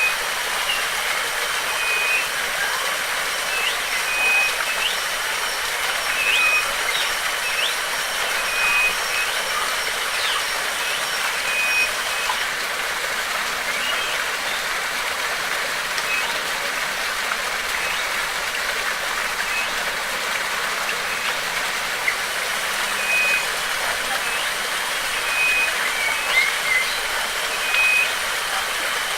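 Steady rush of flowing water, with a bird repeating a short, even, high note every second or two and a few quick rising chirps; the repeated note stops for several seconds midway and comes back near the end.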